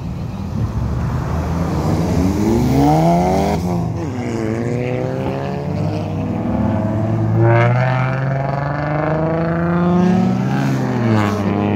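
A performance car's engine revving hard and accelerating, its pitch climbing, dropping sharply about three and a half seconds in, climbing again, and falling once more near the end.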